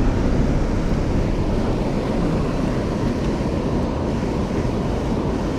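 Steady rushing noise of river water, with wind rumbling on the microphone.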